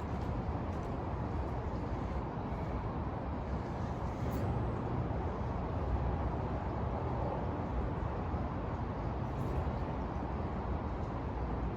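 Steady city traffic hum, an even low rumble with a few faint ticks here and there.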